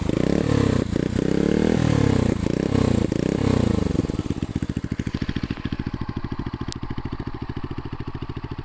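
Archive Outback 125 scrambler motorcycle engine blipped repeatedly, its pitch sweeping up and falling back about twice a second, then settling after about four seconds into a steady, evenly pulsing idle.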